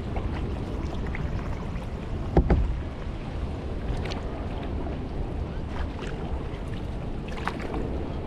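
Kayak paddling: small paddle splashes in lake water over a steady low rumble of wind on the microphone. A single sharp knock about two and a half seconds in is the loudest sound.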